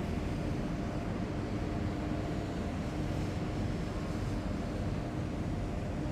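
Heavy military vehicles' engines running as the column drives past: a steady low drone with a constant hum in it.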